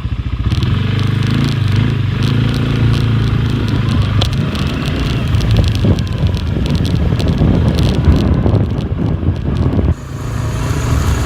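Four-wheeler engine running steadily under way, with frequent short knocks and clatter over it. The level dips suddenly near the end and then comes back up.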